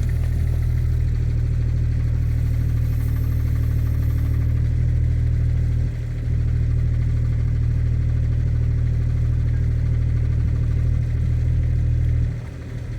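Kubota mini excavator's diesel engine running steadily under the post-hole auger work, with a brief dip about six seconds in and a drop in level near the end.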